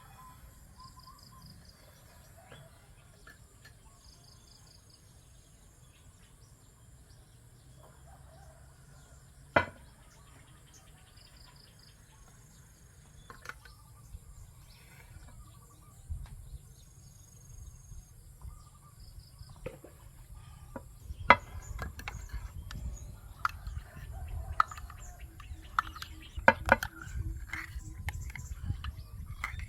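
Countryside morning ambience over rice fields: small birds chirping and giving short whistled calls, over a steady high-pitched insect drone. A few sharp clicks stand out, and a low rumble grows in the second half.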